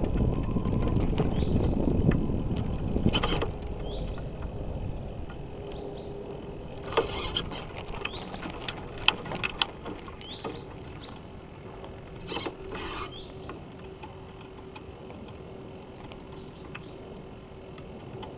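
Onboard sound of a North Wind 360 radio-controlled sailboat under way: water and wind rush past for the first few seconds, then quieter, with scattered sharp clicks and knocks and a faint steady hum in the later part.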